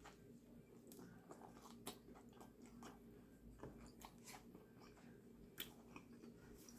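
Faint chewing and mouth sounds of someone eating a sandwich, with scattered soft clicks.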